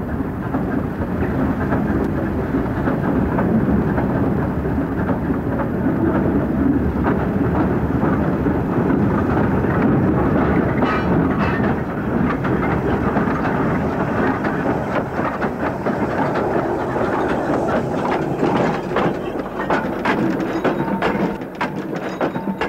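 A train of railway wagons rolling along the track, with a steady rumble and rattle. Clanks and clicks grow more frequent in the second half.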